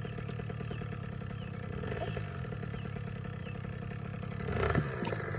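Small engine idling steadily with an even low pulse, with a brief voice near the end.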